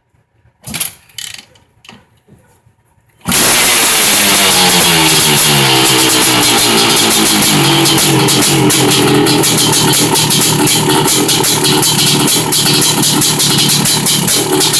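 Freshly rebuilt Honda CR500 500cc single-cylinder two-stroke motocross engine starting cold: a few quiet sounds, then it fires about three seconds in and runs loud with a fast pulsing beat. Its pitch climbs for several seconds, then holds steady.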